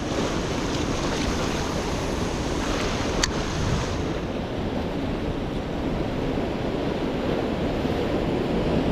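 Pacific Ocean surf washing steadily against the shore, with wind buffeting the microphone. A single brief click about three seconds in.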